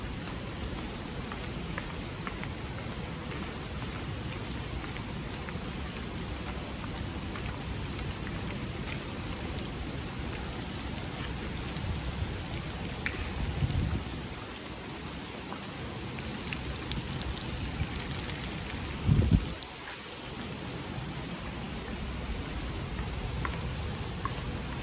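Typhoon rain falling steadily: an even hiss with scattered drop ticks. Two louder low rumbles come about halfway through and again about three-quarters of the way in.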